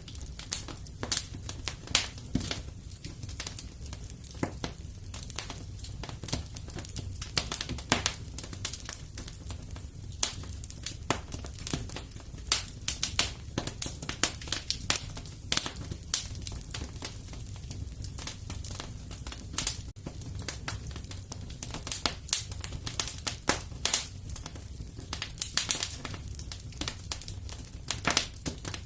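Wood fire crackling and popping in a fireplace: irregular sharp snaps over a steady low rumble of flame.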